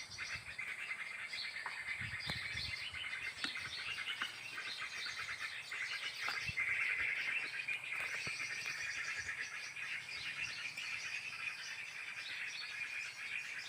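Many small birds chattering and chirping together: a dense, continuous twittering, busiest about halfway through.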